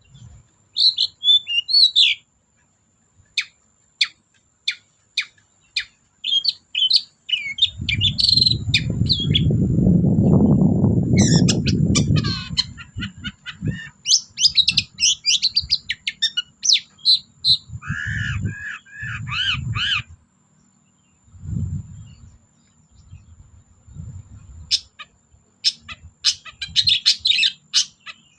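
Long-tailed shrike (cendet) singing a busy, varied song of short chips, trills and run-together phrases, with pauses between bursts. A loud low rumble rises over the song from about 7 to 12 seconds in, and a faint steady high tone runs underneath.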